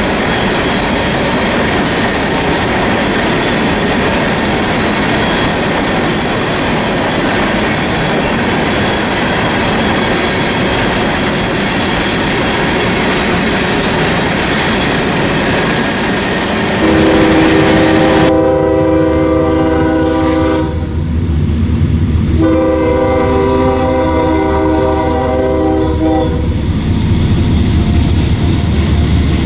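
Train rolling past with a loud steady rush of wheels on rail. About halfway through, a diesel locomotive's multi-chime air horn sounds two long blasts with a low engine rumble beneath, and starts a third near the end.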